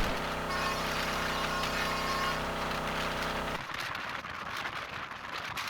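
Train sound: a steady pitched drone that cuts off abruptly about three and a half seconds in, leaving an even rushing noise.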